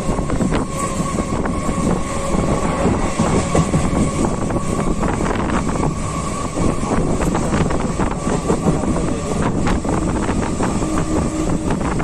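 Electric local train (EMU) running at speed, heard from on board: a steady rumble with the wheels clicking irregularly over the rail joints, and a steady high whine that stops near the end.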